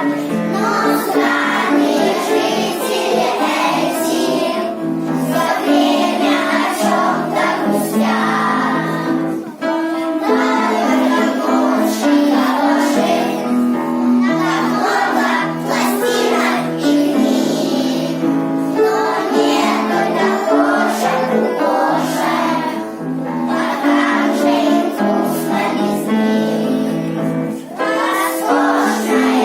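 A song with children singing together over musical accompaniment.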